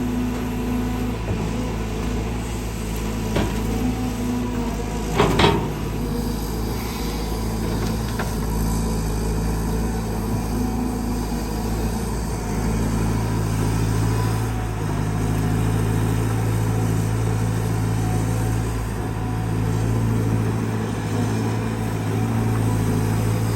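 Caterpillar 320GX excavator's Cat C4.4 four-cylinder diesel engine and hydraulic pump running steadily under digging load, a smooth, even sound. A brief clatter comes about five seconds in.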